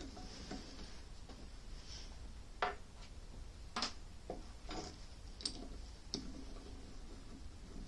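Scattered sharp metallic clicks and knocks, about six spread irregularly across a few seconds, from handling a lathe chuck as its jaws are set out to take a piece of stock.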